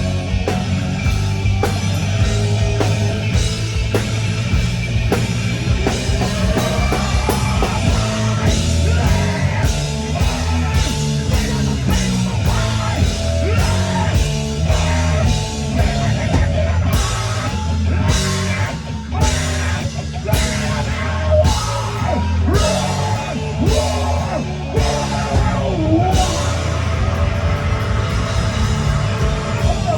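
Rock band playing live, with drum kit over a heavy bass line. In the second half the drums strike hard, evenly spaced accents, a bit under two a second.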